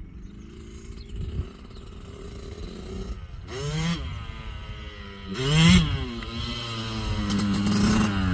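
Yamaha YZ two-stroke dirt-bike engine running at idle, blipped twice on the throttle with quick rises and falls in pitch, then held at a steady higher speed that creeps up near the end.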